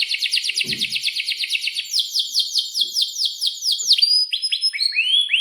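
Domestic canary singing a long roll: a very fast trill of repeated notes, then slower falling notes about five a second, changing near the end to rising slurred notes.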